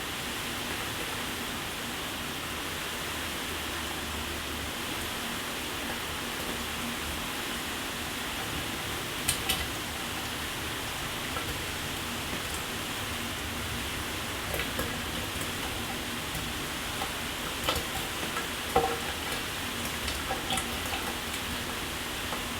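Steady hiss of a running shower, water spraying and splashing on a surface, with a few sharper drips and splatters about nine seconds in and again in the last few seconds.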